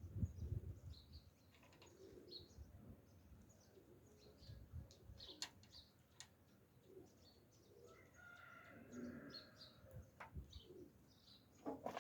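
Faint, scattered bird chirps over low background rumble, with a few light clicks.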